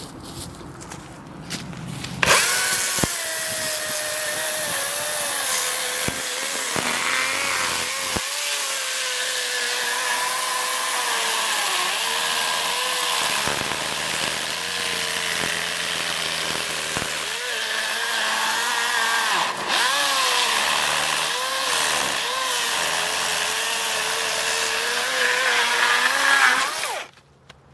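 DeWalt cordless electric chainsaw cutting into a felled tree trunk: it starts about two seconds in and runs under load for about 25 seconds, its pitch wavering and dipping as the chain bites into the wood, then stops suddenly near the end.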